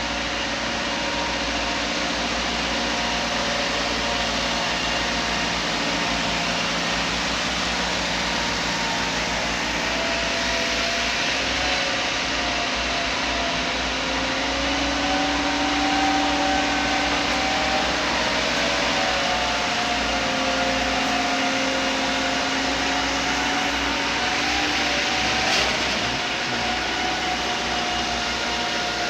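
Heavy quarry machinery's diesel engine running steadily, its pitch drifting slightly up and down, with a brief click about 25 seconds in.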